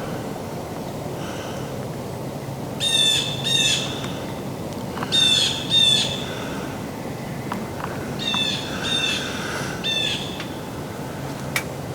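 A bird giving harsh, squawking calls in groups of two or three, repeated every couple of seconds.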